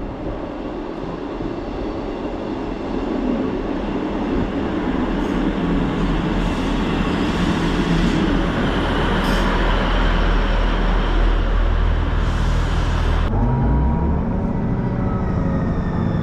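A train running, a loud rumbling rail noise that grows louder over the first few seconds. About thirteen seconds in, the sound switches abruptly to a lower rumble with a rising whine, as of a train pulling away.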